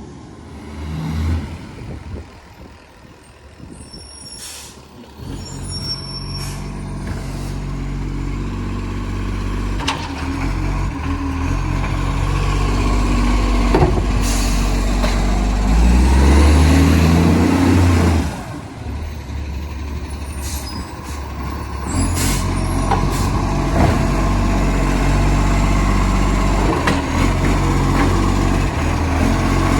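Side-loader garbage truck with a massive exhaust leak: its diesel engine picks up a few seconds in, revs to its loudest around the middle, then drops off sharply and runs on steadily. There are sharp air-brake hisses now and then.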